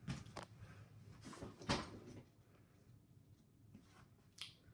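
Harbor Breeze Centreville 42-inch ceiling fan coasting down after being switched off: a faint low hum that fades about two seconds in, with a few soft knocks.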